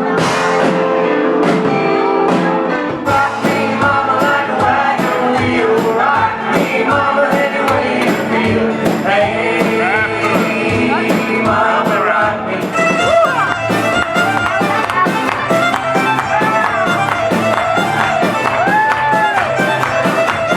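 Cover band playing a song with a lead singer over drums, guitar and keys. The drums and bass come in fuller about three seconds in, and the cymbals get busier about halfway through.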